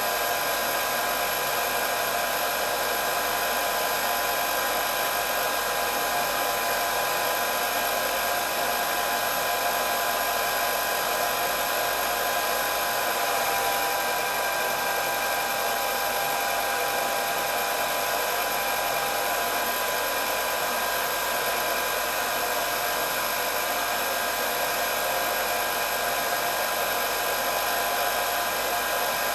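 Electric hair dryer running continuously: a steady rush of blown air with a constant high whine from its motor and fan.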